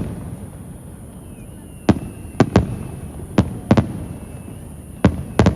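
Aerial fireworks shells bursting in a display: about nine sharp booms at irregular intervals, several in quick pairs, each with a short fading echo.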